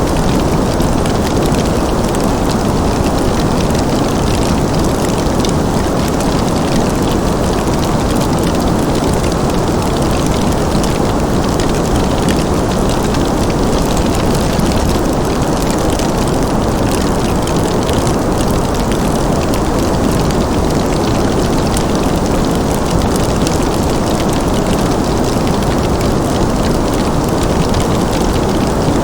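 Fireplace crackling over a steady, dense rushing noise of winter ambience, unchanging throughout.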